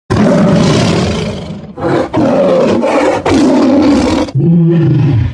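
Big cat roaring: a run of loud, drawn-out roars with short breaks between them, the last ones sliding down in pitch.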